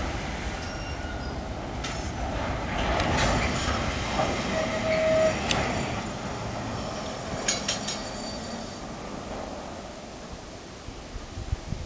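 Freight wagons rolling away behind a TGM6A diesel-hydraulic shunting locomotive: a steady rumble that fades as the train moves off. A brief squeal comes about halfway, followed by a few metallic clanks.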